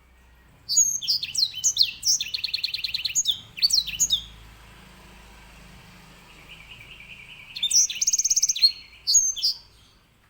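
Grey singing finch (edel sanger, Serinus leucopygius) singing in bursts of quick chirps and fast rattling trills, with a softer, lower trill about six seconds in before another strong phrase.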